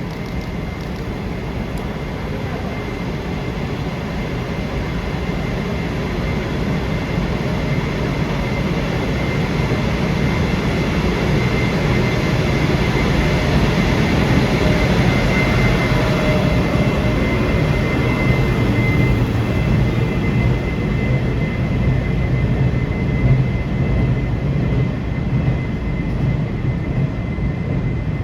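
Freight train rolling past: a steady rumble of the wagons on the rails, growing louder over the first dozen seconds and then holding, with a thin steady high tone above it.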